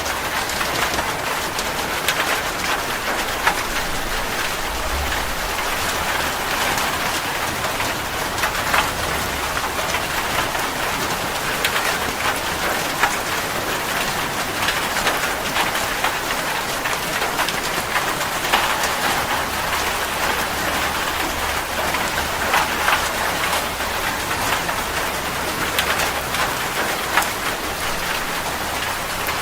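Steady rainfall, an even hiss with many scattered individual raindrop ticks striking a surface.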